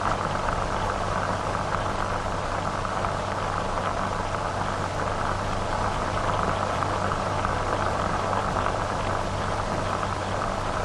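Steady hiss and crackle of an old recording, with a low steady hum underneath and no distinct sound events.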